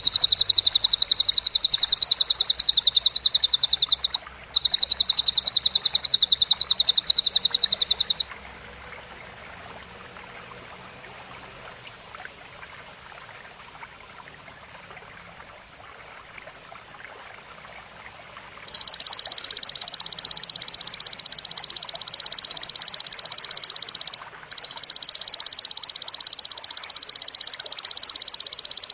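Recorded cililin and grasshopper calls: high, rapidly pulsing buzzing trills. They run loud for about eight seconds with one short break, give way to a quieter background hiss, and resume a little lower in pitch about two-thirds of the way through, with another brief break.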